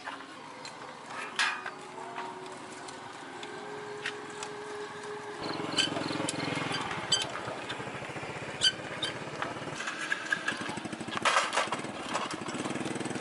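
Small engine running, growing louder and rougher about five seconds in, with a few sharp metallic clicks over it.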